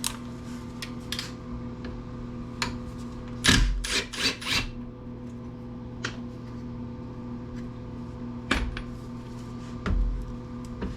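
Hand tools and metal parts handled on a workbench: a few short knocks and scrapes, a quick cluster of them about four seconds in and single knocks later, over a steady low hum.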